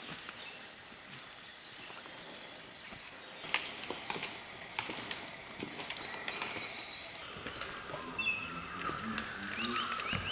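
Small songbirds chirping, with several short calls overlapping and growing fuller in the second half. A few sharp clicks or snaps come about three and a half to five seconds in.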